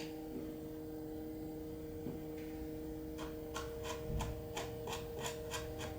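Steady electrical hum throughout, joined about halfway through by a run of light ticks, roughly three a second.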